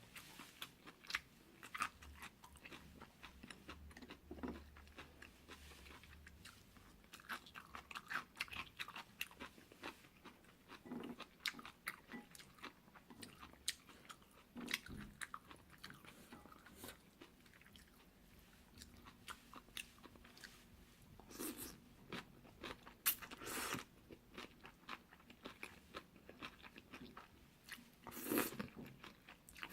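Close-miked eating sounds of jjolmyeon, spicy chewy cold noodles: steady chewing and biting with many small crisp clicks, and a few louder crunches about 21, 23 and 28 seconds in.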